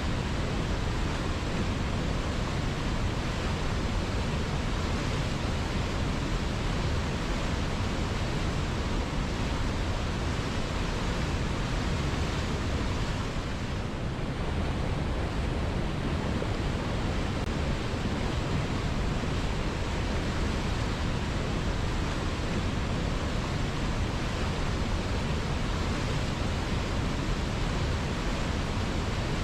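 A river flowing: a steady, unbroken rush of water, briefly a little softer about halfway through.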